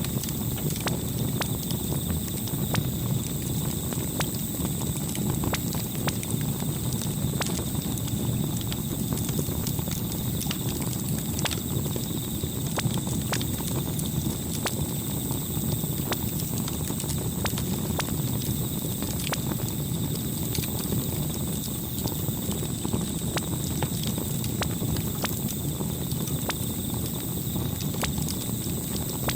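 Campfire crackling: scattered sharp pops and snaps over a steady low rumble of burning wood.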